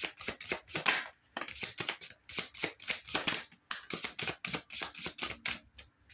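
Tarot deck being shuffled by hand: a quick, even run of card slaps, several a second, that stops near the end.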